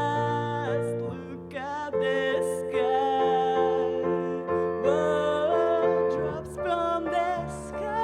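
Song performed live: a voice sings a melody over sustained chords, which change about a second in and again about six seconds in.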